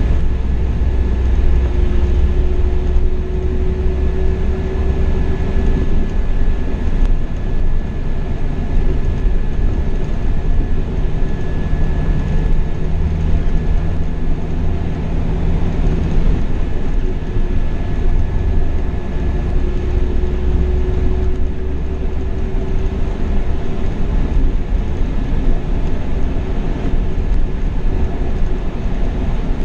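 Steady low rumble of a Scania K420 rear-engined double-decker coach cruising on the highway, heard from the driver's seat: engine, tyre and wind noise together. A faint whine rises slowly twice, near the start and about two-thirds of the way in.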